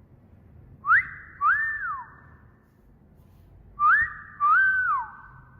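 Two wolf whistles about three seconds apart, each a quick upward whistle followed by a longer one that rises, holds and falls away, with an echo trailing after each.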